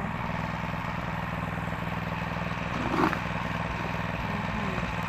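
An engine running steadily at a constant speed, with a short louder sound about three seconds in.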